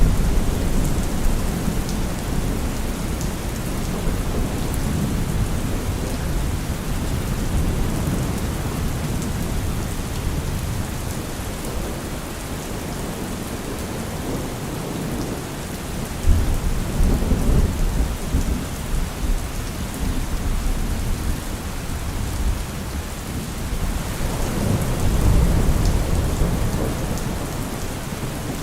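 Heavy rain falling steadily, a dense even hiss of drops, with a deep low rumble that swells up a few times, most strongly a little past halfway and again near the end.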